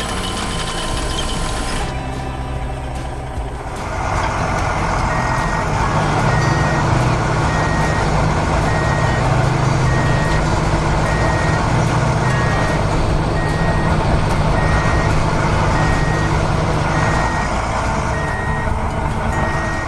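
Heavy truck's engine running, getting louder about four seconds in, with a reversing alarm beeping steadily about once a second from about five seconds in: the truck is backing up.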